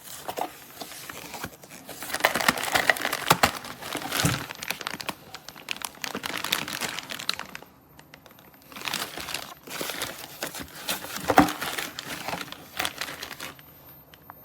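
Irregular crinkling, clicking and clattering handling noise in bursts, with a short lull about eight seconds in.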